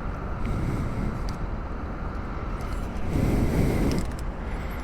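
Steady low rumble of vehicle noise with wind on the microphone, swelling briefly about three seconds in.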